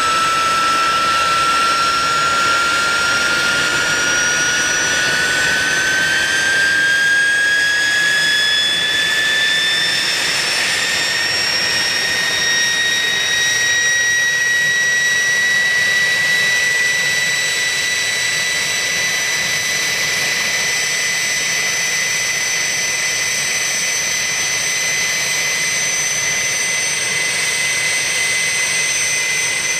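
Motorlet M701 jet turbine engine running loud, its high whine climbing steadily in pitch for the first half and then holding level.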